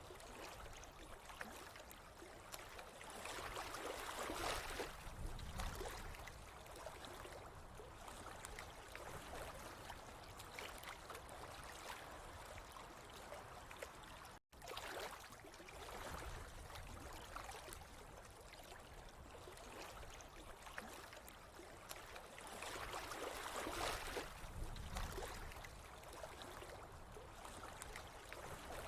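Flowing water trickling and gurgling steadily. It swells louder twice, and drops out for an instant about halfway through.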